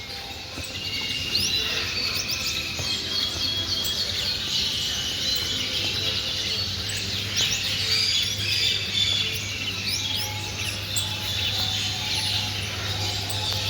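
Many small cage birds chirping and twittering together, a dense chorus of short calls, over a steady low hum.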